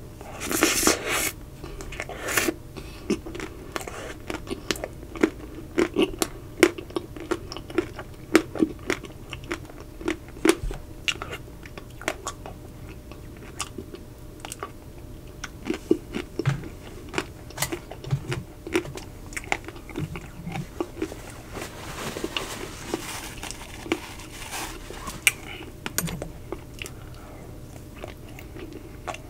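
Close-miked eating of a Magnum Double Sea Salt Caramel ice cream bar. A loud crunch of the chocolate shell comes about a second in, then chewing with many small crackling clicks of shell breaking in the mouth.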